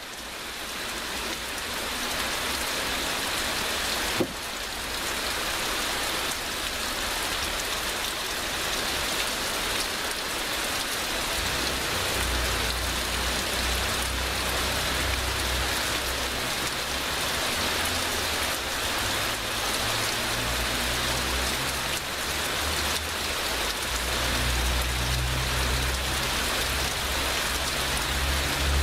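Heavy rain in a steady downpour, a dense even hiss of drops that fades in over the first couple of seconds. A single sharp tick about four seconds in, and a low rumble comes and goes underneath from about halfway through.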